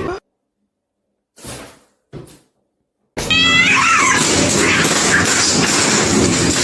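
A cat meows once, a drawn-out call bending down in pitch, about three seconds in, over a loud rushing noise that goes on after it. Before this there are about three seconds of silence with two faint brief rustles.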